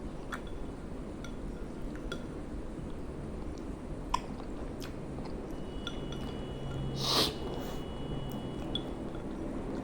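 A person chewing a mouthful of noodles, with small clicks of cutlery against the bowl scattered through, and a brief louder rush of noise about seven seconds in.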